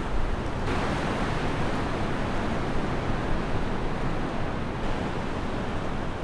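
Strong winter wind blowing, swelling in a gust about a second in.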